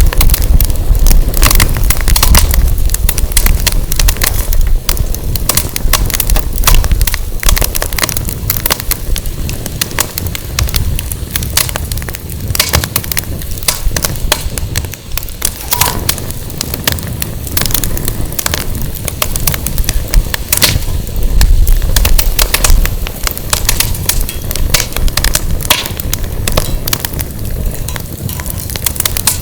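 Firewood burning in a fire pit, crackling steadily with many sharp pops. Wind buffets the microphone in low rumbling gusts, strongest at the start and again about twenty seconds in.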